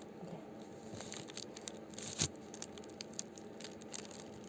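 Light handling of a meal of momos and its dishes: scattered small clicks and crinkling, with one sharper knock about two seconds in.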